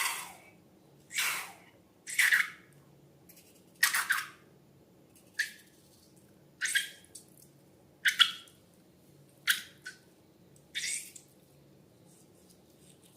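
Slime being squished by hand: about nine short, wet sounds, roughly one every second and a half.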